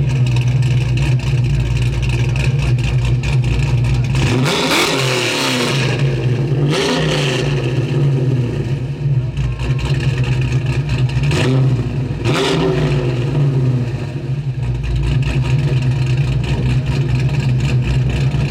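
Car engine idling steadily, revved up and back down four times: a longer rev about five seconds in, then short blips near seven, eleven and twelve seconds in.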